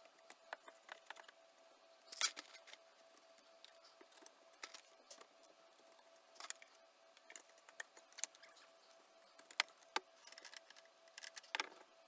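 Scattered light clicks, taps and small metallic rattles of hands handling tools and parts during repair work, over a faint steady high hum.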